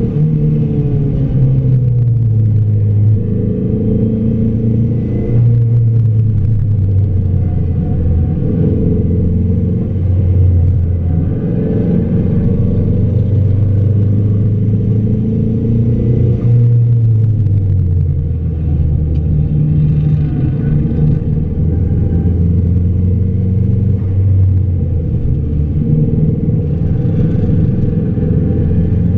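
Car engine heard from inside the cabin while lapping a race track at speed. The engine note climbs under acceleration and drops back several times, as with gear changes and braking into corners.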